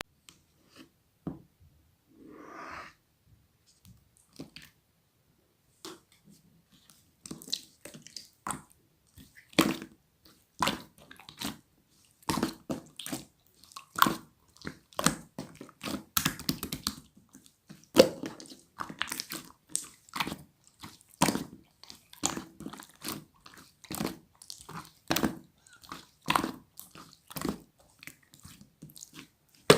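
Slime being kneaded and mixed by hand, giving sticky clicking pops and squelches. They are sparse at first, with a short rustle about two seconds in, and come several a second from about seven seconds in.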